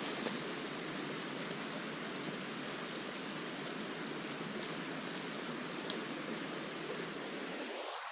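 Steady rushing of a stream or small waterfall, an even hiss of running water; its lower part drops away near the end.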